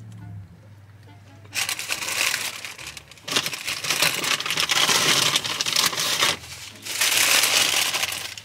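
A person chewing a mouthful of chicken sandwich close to the microphone. The chewing starts about a second and a half in and runs in three long stretches with short pauses between them.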